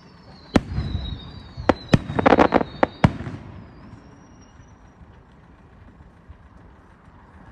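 Distant fireworks going off: a handful of sharp bangs and a quick run of crackling pops in the first three seconds, with high wavering whistles over them, then dying down to a low background.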